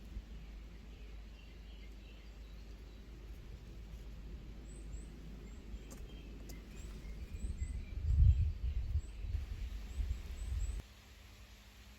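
Small birds chirping in short high calls over a steady low background noise. Partway through, a low rumble swells and then cuts off suddenly.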